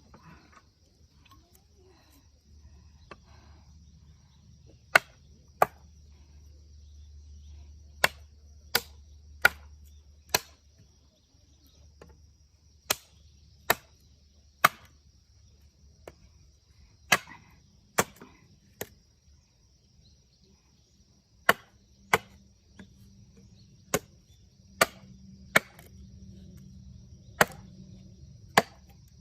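Firewood being split with a blade: about twenty sharp chopping strikes into wood, mostly in quick runs of two or three blows with short pauses between. A faint steady insect chirring runs underneath.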